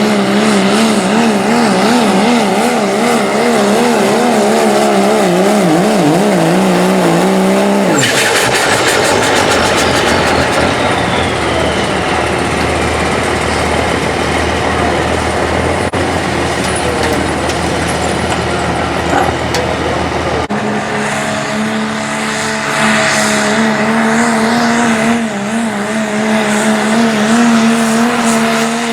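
Diesel 4WD pulling truck's engine at full throttle under load, its pitch wobbling rapidly up and down. About eight seconds in the sound changes abruptly to a broad rushing noise with a whistle falling slowly in pitch and a low rumble, and about twenty seconds in a steady high engine tone returns.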